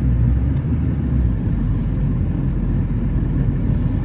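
Vehicle engine running steadily, a low rumble, with a deeper throb that eases off about a second and a half in.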